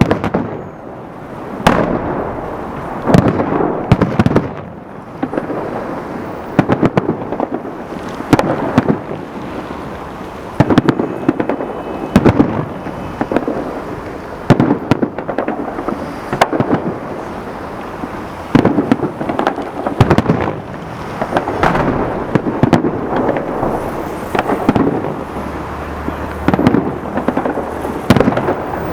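Fireworks salute: a long run of booming aerial shell bursts, about one every one to two seconds, each followed by echoing rumble, with crackle between them.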